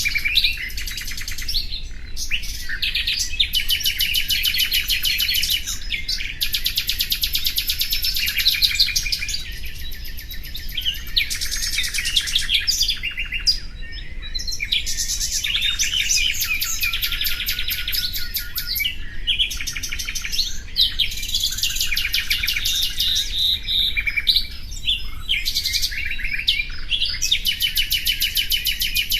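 Nightingale singing: phrase after phrase of rapid, high trills and chirps, each a few seconds long with brief pauses between them.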